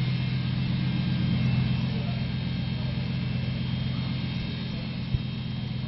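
Dodge Ram 1500's 5.7-litre Hemi V8 idling steadily, a low even hum.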